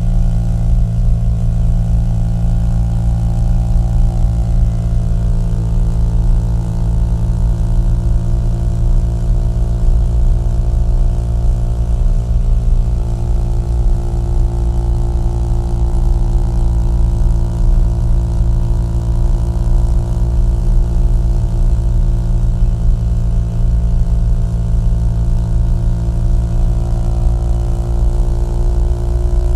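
Small-displacement motorcycle engine and exhaust running steadily at cruise, its pitch rising slightly near the end.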